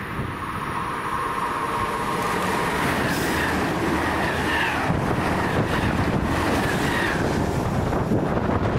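Czech Railways class 680 Pendolino electric tilting train passing at speed, a growing rush of wheels and air with a high whine over it. Wind buffets the microphone as it goes by.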